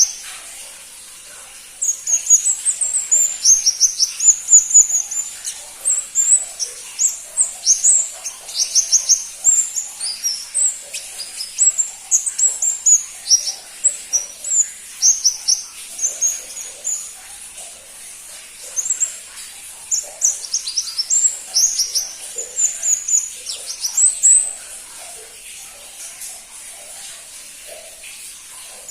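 A pentis pelangi (crimson-breasted flowerpecker) singing: rapid runs of very high, thin chirps that each sweep downward, in bursts with short pauses, thinning out near the end.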